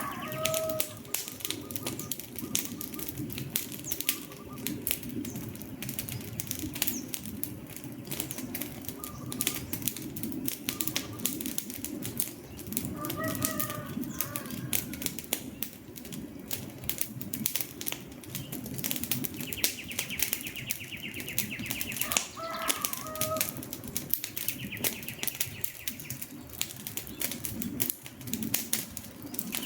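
Wood fire crackling and popping steadily with a low rush of flame. A bird calls briefly three times: just after the start, about 13 seconds in, and about 22 seconds in.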